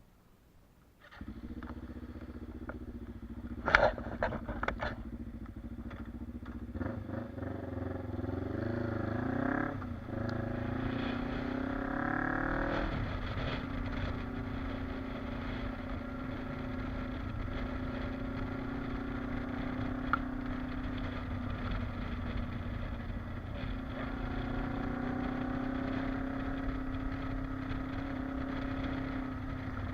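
Kawasaki KLE motorcycle engine starting about a second in and idling, with a few sharp clicks and clunks a few seconds later. Its engine speed then rises twice and it settles into steady running.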